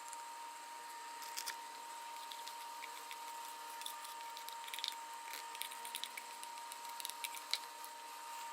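Scattered faint clicks and small taps, most of them in the second half, over a steady hiss and a thin high hum.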